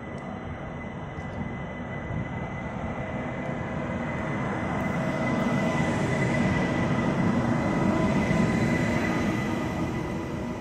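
ICE high-speed train pulling into a station platform, its power car and coaches rumbling past close by. The sound grows louder to a peak about six to nine seconds in and eases near the end, with a thin, steady high whine throughout.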